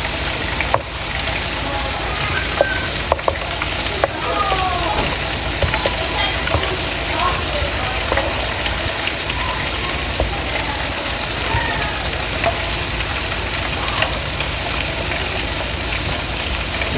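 Flour-coated fish frying in hot grease: a steady, even sizzle, with a few faint pops.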